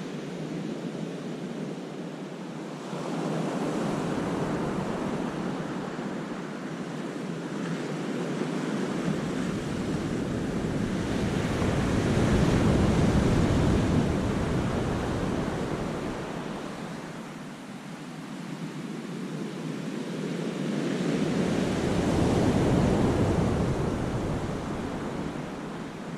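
Sea waves breaking and washing over rocks in a cove, surging in long slow swells: loudest about halfway through and again near the end, easing back in between.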